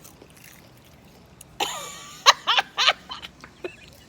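A person's vocal reaction about one and a half seconds in: a cough-like burst followed by several quick, short pitched sounds, then a few fainter ones.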